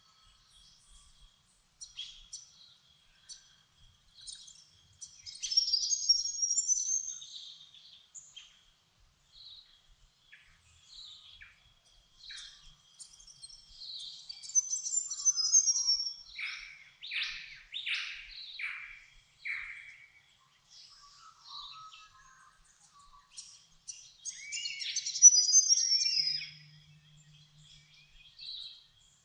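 Dawn chorus of several songbirds. High, quick twittering songs come in three bursts, near the start, in the middle and near the end, and a run of four louder descending notes sounds midway. A faint, steady, high pulsing note runs underneath throughout.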